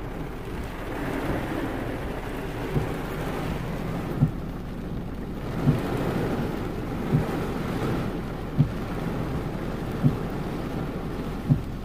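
Heavy rain pouring on a car, heard from inside the cabin as a steady wash that swells now and then, with a short low thump repeating evenly about every second and a half.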